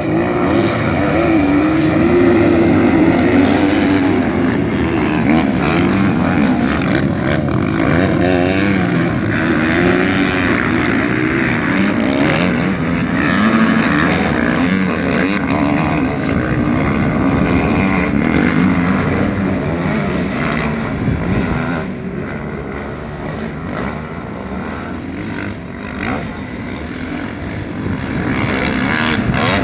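Racing motorcycle engines running hard, their pitch rising and falling as the bikes rev and shift.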